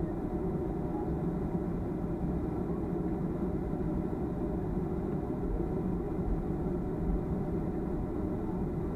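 Steady low rumble inside the cabin of a Boeing 737-300 airliner, from its CFM56 turbofan engines, holding an even level throughout.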